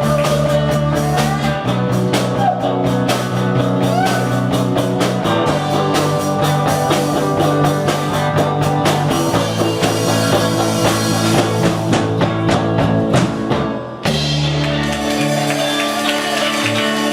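Live rock band playing with singing and a drum kit. The playing dips briefly about 14 seconds in, then the band comes back in.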